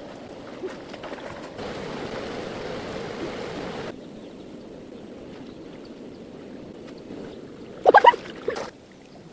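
Running water, louder and brighter for about two seconds between one and a half and four seconds in. Near the end comes a short, loud pitched sound.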